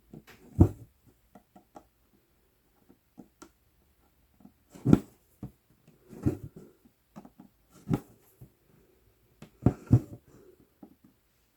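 Size 24 needle stitching through 11-count Aida cloth with the floss drawn through, one sharp stroke every second or two and small ticks and rustles in between.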